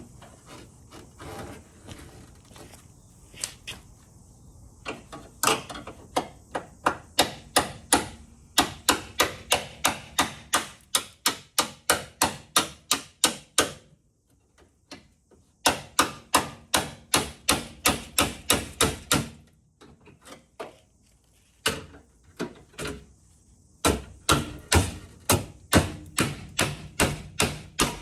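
Hammer striking metal in quick runs of sharp blows, about three a second with short pauses, knocking a car's slam panel free after its spot welds have been drilled out.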